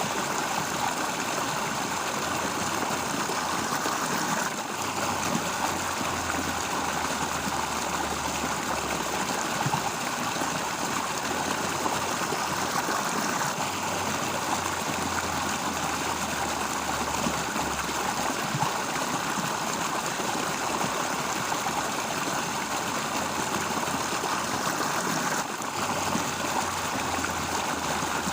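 Steady flowing water of a stream.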